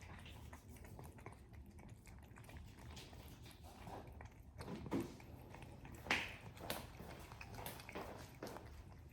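A cat chewing food, with scattered soft clicks and small knocks, a few of them louder about five to seven seconds in.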